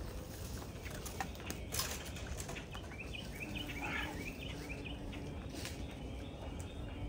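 Birds chirping in short repeated notes over a low wind rumble, with a few light knocks and clicks scattered through.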